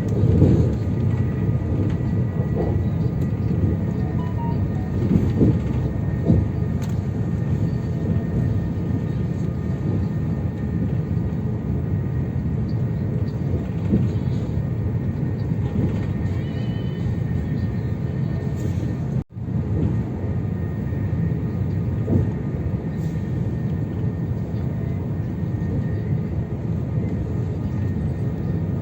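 AVE high-speed train running at speed, a steady low rumble with a faint thin whine, broken by a momentary drop-out about two-thirds of the way through.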